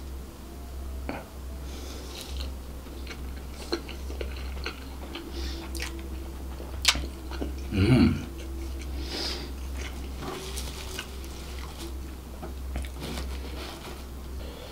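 Close-miked eating of seafood fried rice and devil chicken by hand: chewing and biting with crunchy, wet mouth sounds and scattered clicks. A short hummed sound comes about eight seconds in.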